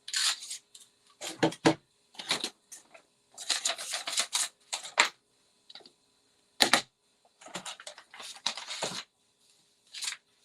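Cardstock being handled and cut out with a paper craft punch: a string of paper rustles and sharp clicks, the sharpest about two-thirds of the way through.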